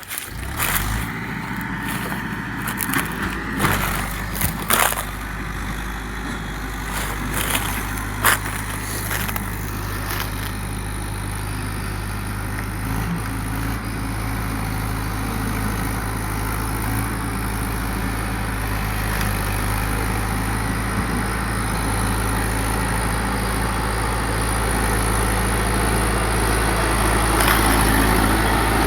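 Tractor diesel engine catching just after the start and settling into a steady idle, with a few sharp knocks in the first eight seconds. It grows slightly louder near the end.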